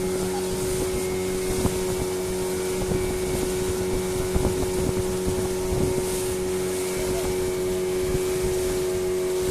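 Small wooden fishing boat's engine running steadily under way, one unchanging pitch with a constant hiss over it.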